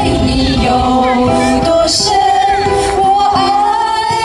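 Several voices singing a Mandarin song together in sustained melodic lines, over ukulele strumming.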